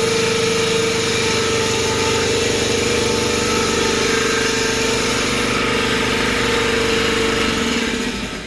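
Steady machine noise with a constant whine, cutting off about eight seconds in.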